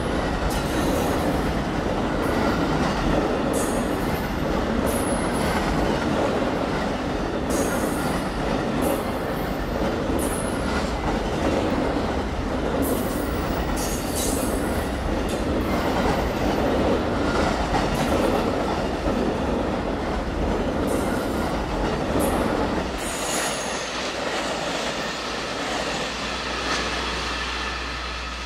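Amtrak Auto Train's enclosed autorack cars rolling past on the rails: a steady dense rumble and rattle of steel wheels, with short high wheel squeals every second or so. The sound fades over the last few seconds as the end of the train passes and draws away.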